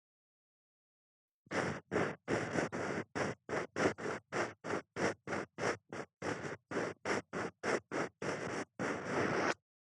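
Ear pick scraping in an ear, recorded up close: a quick series of short rubbing strokes, about three a second, starting about a second and a half in and stopping shortly before the end.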